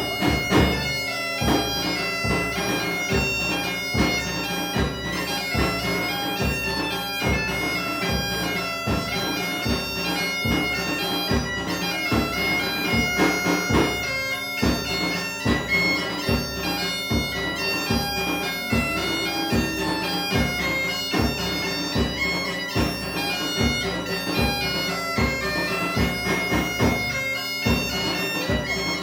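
Galician gaita (bagpipe) playing a lively tune over its steady drone, with a snare drum (tambor) and a bass drum (bombo) keeping a steady beat.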